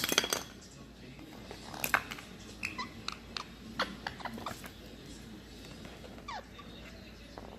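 Pet parrot making short squeaks and chirps, one falling in pitch about six seconds in, among sharp clicks and taps. A quick cluster of clicks comes at the very start.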